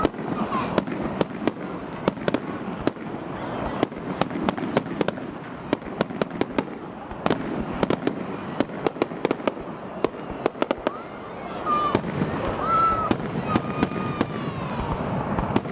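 Fireworks crackling, with many sharp, irregular pops in quick succession over a continuous rumble.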